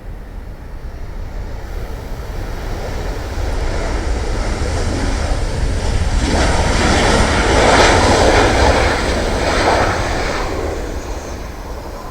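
Southwest Boeing 737 jet landing and passing by: its engine noise swells to a peak about eight seconds in, then fades, over a steady low rumble.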